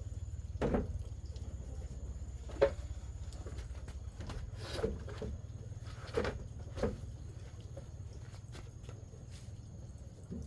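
A handful of short, irregular knocks and clatters, about five in ten seconds, the sharpest a little over two seconds in, over a steady low rumble.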